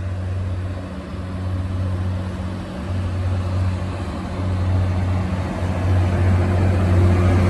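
Diesel multiple unit's engine running with a steady low drone that dips briefly a few times and grows gradually louder.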